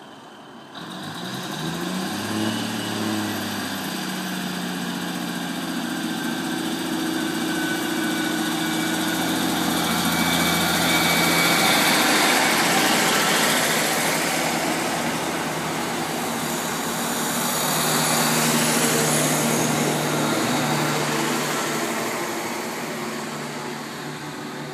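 A train moving through the station. A low engine or motor drone rises in pitch in the first few seconds and then holds steady, while the overall noise swells, loudest about halfway through and again near the end.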